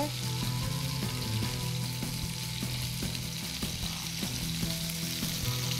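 Skewered chicken kebabs shallow-frying in oil in a frying pan, a steady sizzle with faint pops, over a steady low hum.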